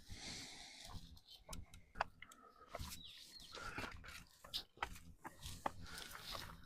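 Faint, irregular crunching and clicking of footsteps and rustling on a rocky bush trail.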